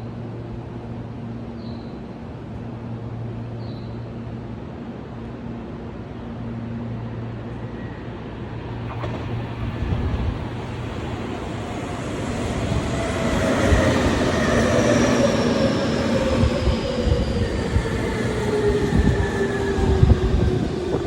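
Tobu 30000 series electric train coming in. A steady low hum in the first half gives way to rising train noise about halfway through, with a motor whine that falls slowly in pitch through the last several seconds.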